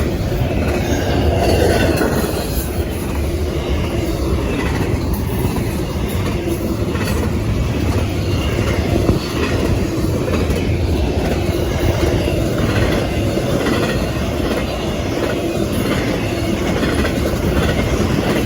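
A long train rolling past close by: a steady rumble of wheels on the rails with a repeated clickety-clack of the cars going over rail joints.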